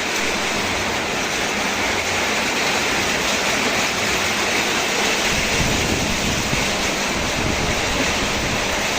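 Heavy rain falling, a steady even hiss with no thunderclap.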